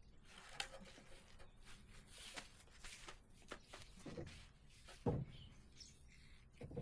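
Faint scattered knocks and clicks, with a dull thump about five seconds in and another at the very end.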